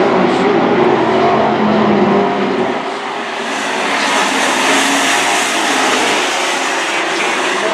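Super Truck racing engines running hard in a dirt-track race. The engine note drops away about three seconds in, leaving a broad rushing noise.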